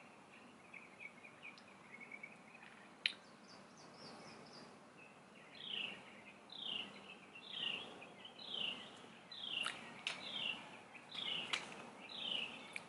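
A bird singing faintly in the background. From about halfway in it repeats a descending chirp about one and a half times a second, after softer twittering earlier. A sharp click comes about three seconds in, with a few fainter ticks later.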